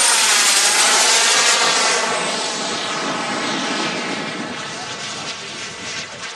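Gas-turbine RC model jet flying past: a loud turbine rush with a high whine that drops in pitch as it passes. It is loudest in the first two seconds, then fades away.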